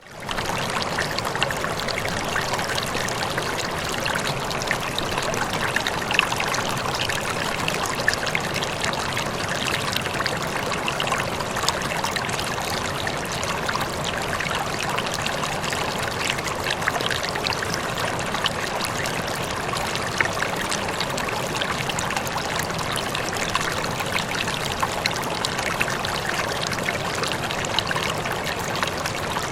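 Running water flowing steadily, a continuous rushing and trickling with many small splashes, fading back in at the very start.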